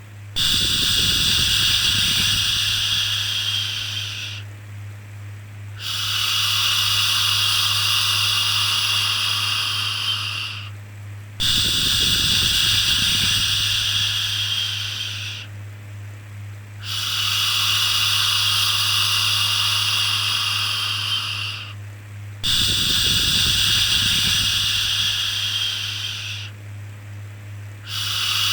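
Repeated long 'shhh' shushing sounds for soothing a baby, each held about four to five seconds with a short breath-like pause between, five in a row with a sixth starting near the end. A steady low hum runs underneath.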